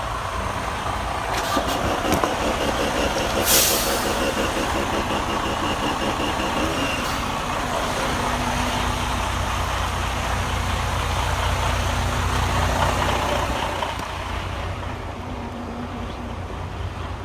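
Semi truck's diesel engine running at low speed, with a short air-brake hiss about three and a half seconds in.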